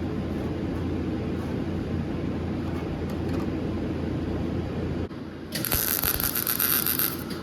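Stick (arc) welder humming steadily, then about five and a half seconds in the arc is struck and crackles loudly for under two seconds before breaking off. The machine is set low (2) for a thick rod, which the welder feels should be nearer 3.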